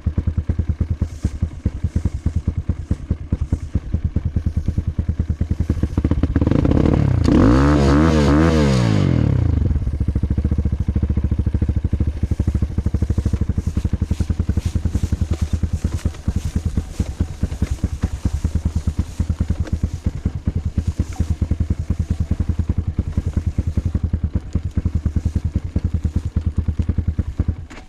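Off-road motorcycle engine running under way with rapid, even firing pulses. It is revved up hard and eased back off around seven to nine seconds in.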